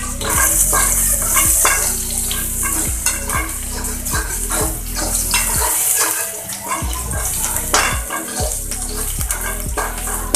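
Green chillies and ginger sizzling in hot oil in a black kadhai, with a perforated metal spatula scraping and clinking against the pan as they are stirred. The sizzle is strongest in the first few seconds.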